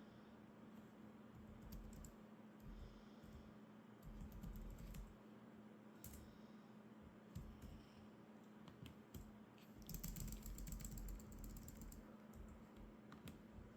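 Faint computer keyboard typing in irregular bursts of key clicks, with quicker flurries about four seconds in and again about ten seconds in.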